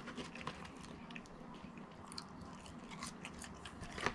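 A person biting and chewing fast food close to the microphone, with scattered small crunching clicks.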